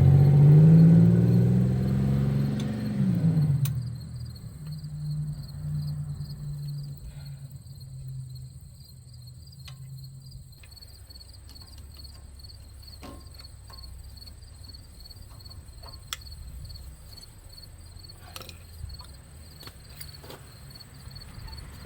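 A motor vehicle's engine running and pulling away, its pitch rising and falling before it fades out within the first four seconds. After that, crickets chirp steadily, with a few faint clicks of hand tools.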